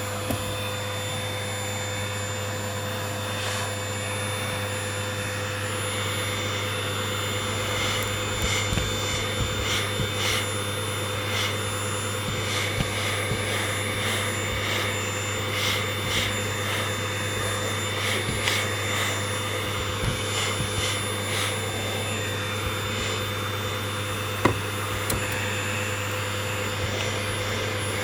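Vacuum cleaner running steadily while its nozzle is drawn over a rabbit's fur, with short scuffs of the nozzle through the middle and one sharp click near the end.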